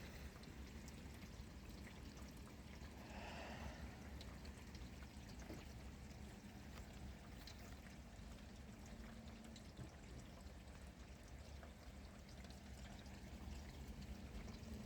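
Steady rain, faint and even, with water pouring and trickling, and a brief soft sound about three seconds in.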